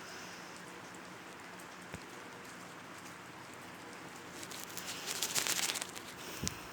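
Steady hiss like rain falling, with a louder burst of crackling about two-thirds of the way in and a short low thump near the end.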